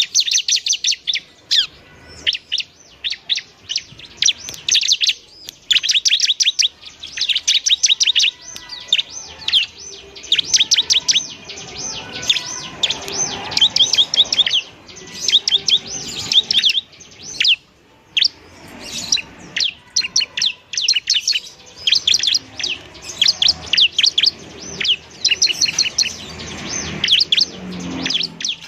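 A ciblek semi (bar-winged prinia) singing in full, constant song: rapid bursts of high, sharp chirping notes, each burst about a second or two long with short breaks between.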